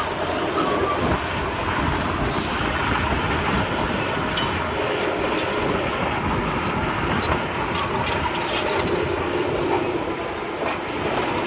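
Komatsu D31P crawler bulldozer working, its diesel engine running steadily under scattered metallic clicks and clanks from the steel tracks.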